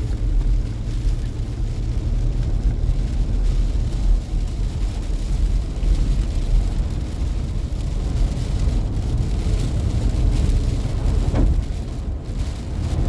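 Steady road noise heard from inside a car driving on a wet road in rain: a low rumble from the tyres and engine with an even wash of water noise over it.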